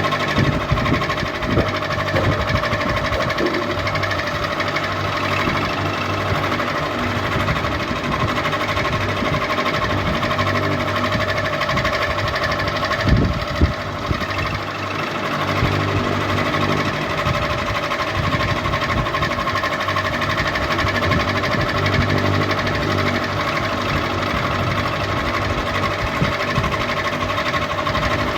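Ceiling fan running steadily: a constant motor hum with a mechanical rattle, and two louder knocks about halfway through.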